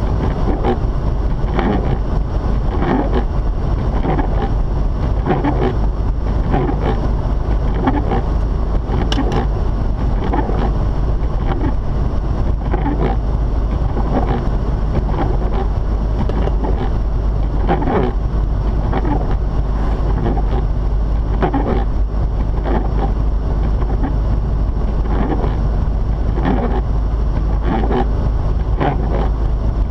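Rotary-engined Mazda RX-8 driving on a snowy road: a steady loud rumble of engine, tyres and wind, with frequent irregular knocks.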